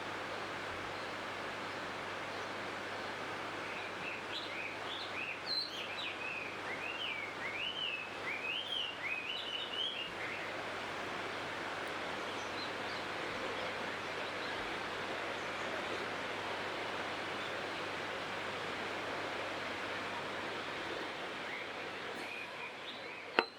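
A small songbird singing a rapid, twittering run of chirps from about four to ten seconds in, over a steady, even outdoor background noise. A single sharp click comes just before the end.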